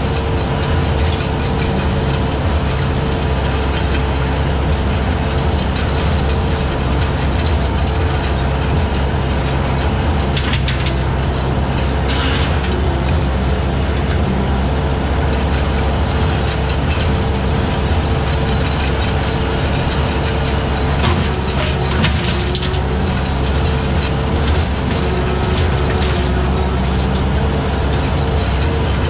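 Skid steer with a 72-inch brush cutter attachment running steadily under load, its engine holding a constant pitch, with a few brief crackles about a third of the way in and again later.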